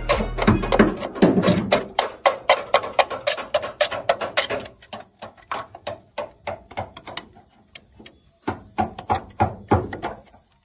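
Rapid, sharp strikes of a hand tool chipping old undercoating and sound deadening off the sheet-metal underside of an AE92 Levin's body, about six hits a second, then slower and irregular strokes from about halfway through with a short pause near the end.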